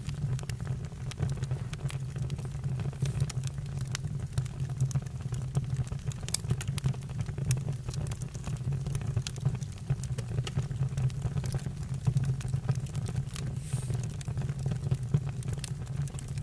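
Campfire burning: irregular crackles and pops over a steady low rumble.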